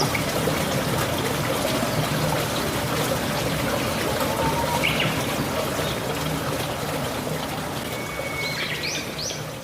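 Steady hiss of running water with a few bird chirps: one about halfway and a quick cluster near the end. The whole sound slowly fades out.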